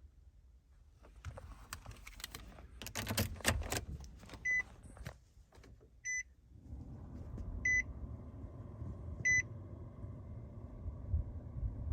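Keys rattling and clicking, then a car chime beeping four times about a second and a half apart. About six seconds in, the 2019 Nissan Sentra's 1.8-litre four-cylinder engine starts and settles into a steady idle.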